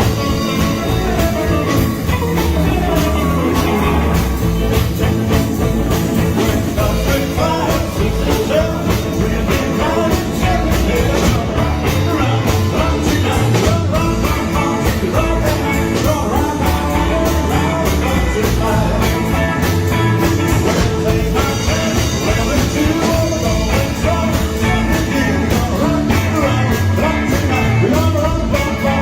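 Live fifties-style rock and roll band playing, with a steady drum beat.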